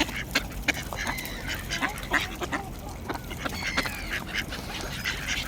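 Ducks quacking and calling while being fed bread, in short scattered calls with many sharp clicks among them.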